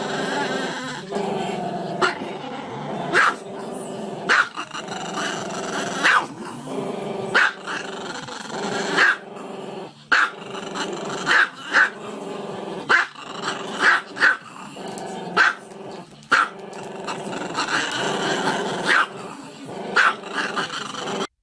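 A dog growling steadily, breaking into sharp barks about once a second.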